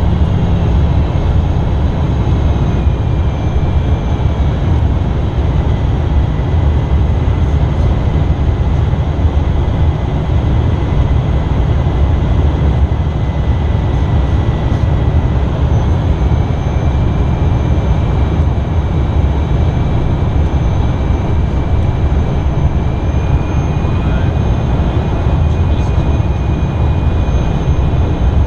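Steady loud drone of airflow and engine noise aboard an Embraer Phenom 300 light jet in flight, heavy at the low end, with a thin high turbofan whine that steps up and down in pitch a few times as thrust is changed.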